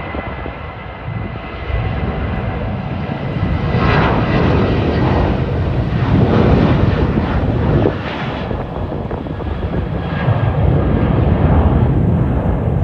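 Boeing 737-800's CFM56-7B jet engines running as the airliner lands, loudest in the middle and rising again near the end, mixed with strong wind on the microphone.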